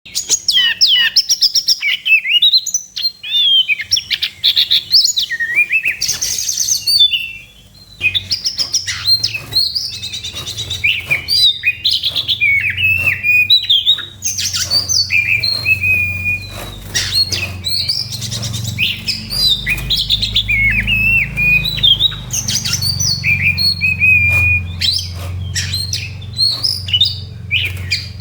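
Oriental magpie-robin (kacer) singing a loud, fast fighting song of varied chirps, trills and sharp whistles, almost without a break apart from a short pause around seven seconds in. It is the kind of aggressive song used as a lure to rile other magpie-robins into singing.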